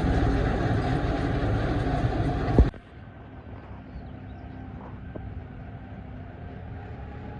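Silage harvester running: a loud, steady machine noise that stops abruptly with a knock about two and a half seconds in, leaving a much quieter steady hum with a faint low drone.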